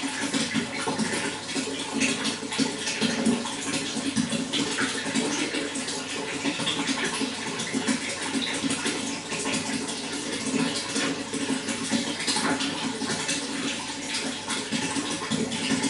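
Running water flowing and splashing steadily, a continuous gurgling rush with many small splashes.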